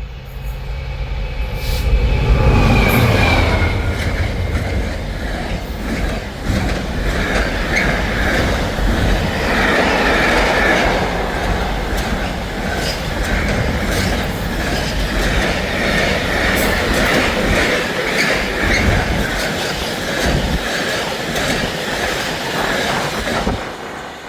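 A diesel train passing close by: an engine drone swells in the first few seconds, then a long run of wheels clattering over rail joints with a steady squeal, until the sound cuts off abruptly near the end.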